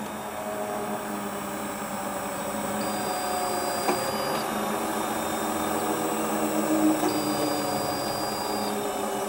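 Hotpoint Ultima WT960 washing machine running on its newly replaced drive belt: a steady motor hum with slowly shifting tones. A faint high tone comes in twice, each time for about a second and a half.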